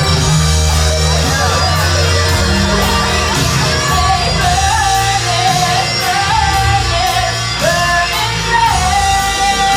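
Live rock band playing loudly, with a steady bass and drum bed. From about four seconds in, a long held, wavering lead note rides on top.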